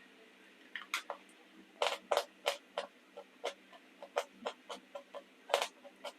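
Chalk being crunched: an irregular run of sharp, crisp cracks and snaps, about fifteen in all, coming in quick clusters.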